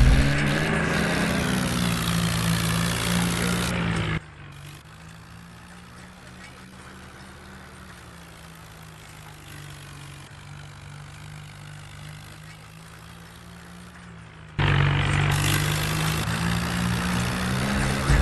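Swaraj 855 tractor's diesel engine running steadily under work. It drops abruptly to a much quieter, more distant-sounding hum about four seconds in and comes back loud near the end.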